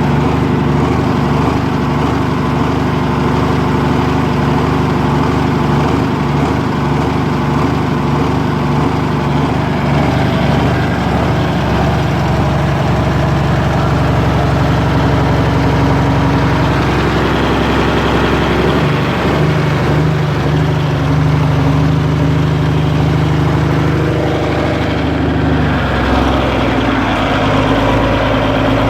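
Loud engine of a home-built tractor-pull tractor running steadily, mostly at idle, its engine speed shifting a couple of times, around the middle and again near the end.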